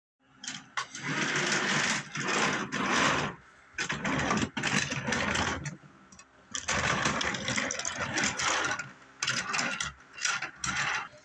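Small electric motor of a battery-powered toy train whirring with a light rattle, in four bursts that stop and start again.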